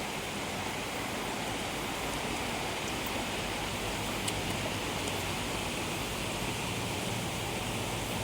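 Steady, even hiss with a faint low hum underneath and a few faint high ticks.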